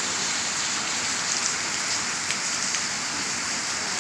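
Steady monsoon rain falling, an even hiss with the patter of individual drops.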